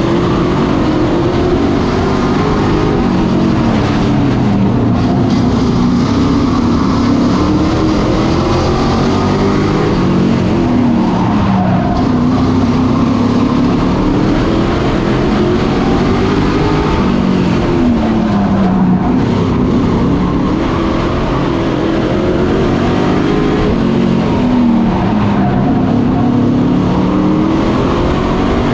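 Super Pro race trucks' engines racing around a short oval, loud and continuous, the engine pitch rising and falling in waves every few seconds as they accelerate and lift around the track.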